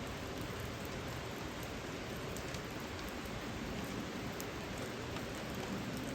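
Steady rain falling, an even hiss with occasional faint ticks of single drops.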